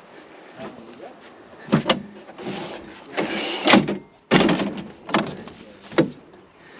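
A string of sharp knocks and clatters, about half a dozen, with scraping and rustling between them. Around the middle the sound drops out briefly and then comes back with a loud knock.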